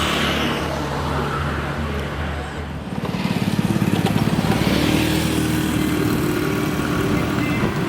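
A motor vehicle engine running steadily, growing louder and rougher from about three seconds in, as if revving or pulling away.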